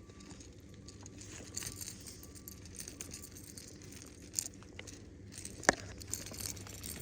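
Faint rustling and crinkling handling noise with scattered small clicks, and one sharp click a little after halfway through.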